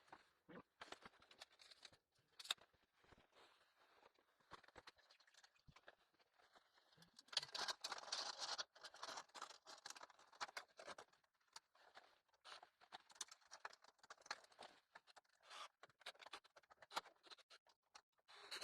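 Faint scattered clicks, knocks and scrapes of chimney connection parts being handled and fitted, with a denser stretch of scraping about seven seconds in.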